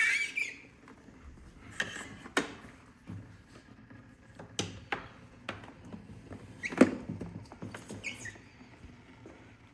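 Irregular clicks and knocks of objects being handled, about a dozen in all with the loudest about seven seconds in, plus a short squeak at the start and another about eight seconds in.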